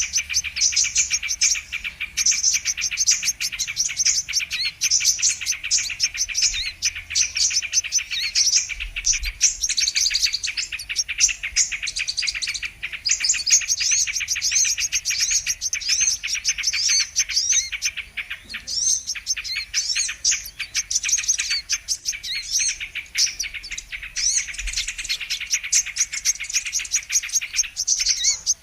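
Sunbird (kolibri kelapa) song: rapid, high, near-continuous chirping and twittering with only brief pauses, from a lure recording used to call in wild sunbirds.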